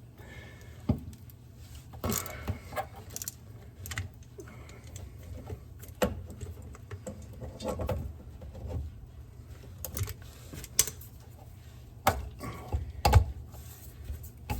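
Hand tools and metal parts clinking and knocking at irregular intervals, with a few louder knocks near the end, as the old fuel pump hoses are worked loose.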